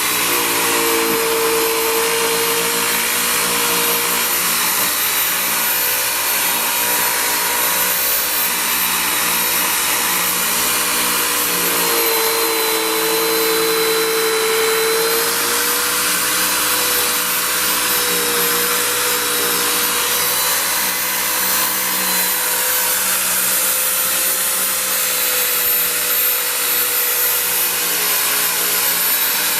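Electric buffer running steadily with a polishing pad on an aluminum wheel, a loud continuous motor whine whose pitch shifts slightly now and then as it is worked against the metal.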